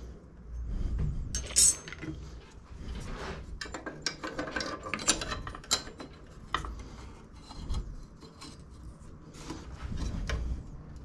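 Hand work on a lawn mower's metal front height-adjuster parts: irregular clicks, clinks and scraping of metal parts and tools, with one sharp click about one and a half seconds in.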